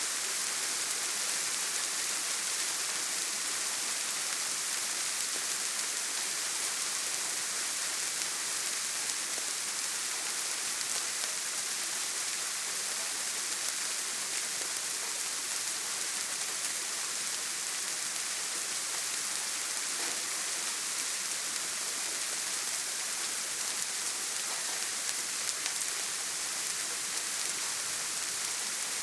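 Heavy rain falling steadily on a tin roof: an even, unbroken hiss with a few faint scattered drop ticks.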